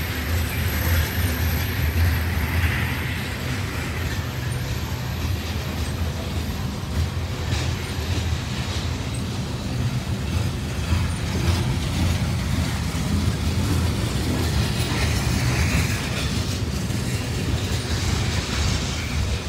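Coal hopper cars of a freight train rolling past: a steady low rumble of steel wheels on the rails.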